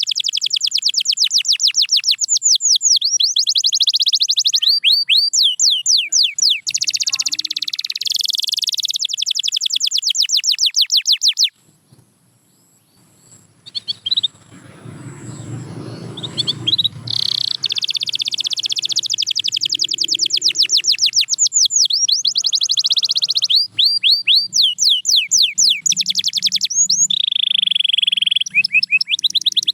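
Canary singing in long, fast trills of rapidly repeated high notes. The song breaks off about a third of the way in for a few seconds of quiet with a faint low rumble, then starts again.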